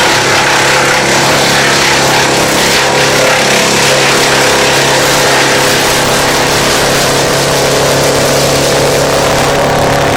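Wood chipper's engine running steadily at high speed, a constant mechanical drone with a broad rushing noise over it, cutting off abruptly at the end.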